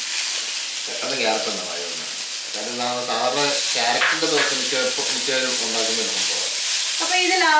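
Grated beetroot, green chillies and ginger sizzling in hot oil in a small kadai as they are sautéed and stirred with a steel ladle, a steady frying hiss.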